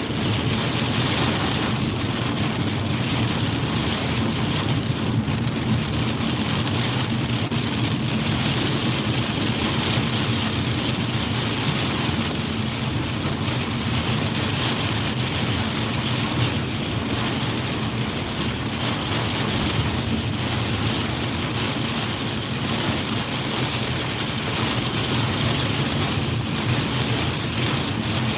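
Heavy monsoon rain beating steadily on a moving car, with a low road and engine rumble underneath.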